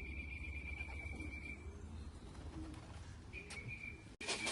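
Racing pigeons cooing softly, with a steady high-pitched tone behind them that stops about two seconds in and returns briefly later. Just before the end the sound cuts abruptly to louder clattering.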